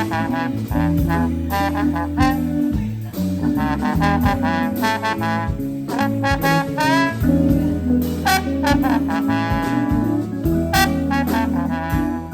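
Music: a band playing a jazz-style tune, with bending melody lines over steady low bass notes.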